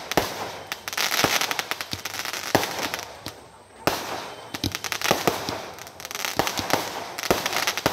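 Aerial fireworks going off in rapid volleys of sharp crackling pops and cracks, with a short lull about three seconds in before the bursts start again.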